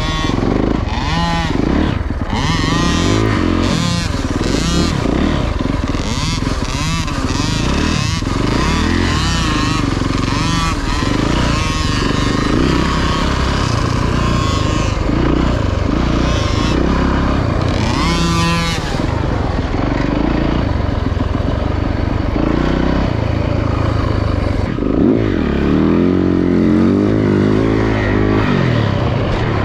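Dirt bike engine under way, revving up and down as the rider works the throttle, its pitch rising and falling again and again, with one sharp climb about 18 seconds in.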